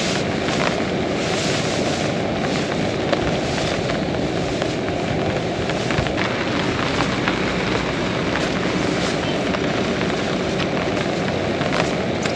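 Heavy rain falling steadily, a dense hiss with many individual drops ticking through it.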